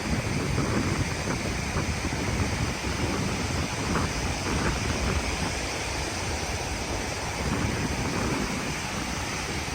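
Wind buffeting the microphone over the steady wash of the sea, in uneven low gusts.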